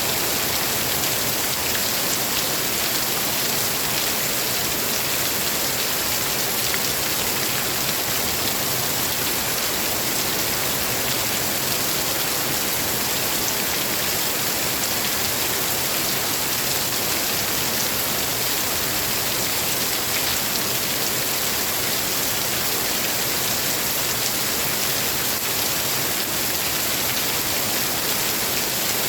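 Rain falling steadily, an even hiss of many drops with no thunder.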